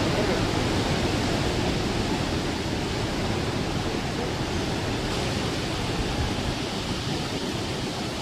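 Heavy rain pouring down as a steady, dense hiss, easing slightly toward the end.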